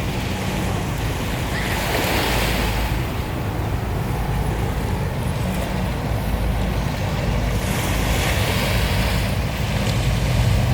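Waterfront ambience: water washing against the shore, swelling twice, over a steady low rumble of a boat's engine.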